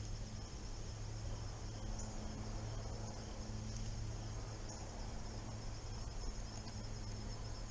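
Steady high-pitched chirring of insects such as crickets, over an even background hiss and a low steady hum.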